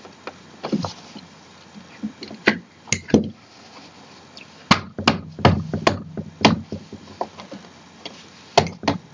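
Irregular knocks and clacks of office-chair parts being handled and pushed together during assembly, thickest in the middle.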